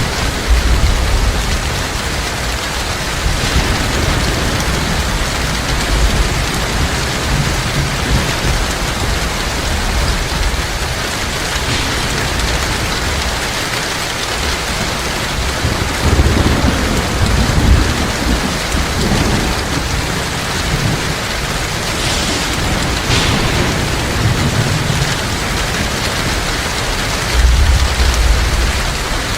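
Heavy rain falling steadily, with low rumbles of thunder rising and fading several times. The strongest rumbles come a little past halfway and near the end.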